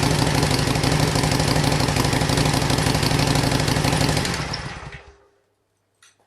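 Harley-Davidson Sportster 883's air-cooled V-twin idling steadily through its exhaust, then switched off about four seconds in, running down and stopping within a second. A faint click follows in the quiet.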